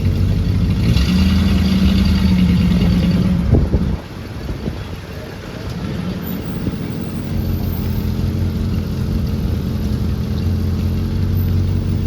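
A car engine running close by, louder for the first few seconds and dropping away sharply about four seconds in, then settling into a steady run.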